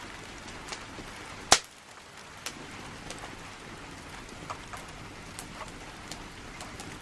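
Steady rain falling, with scattered drops ticking on nearby surfaces, and one sharp click about a second and a half in.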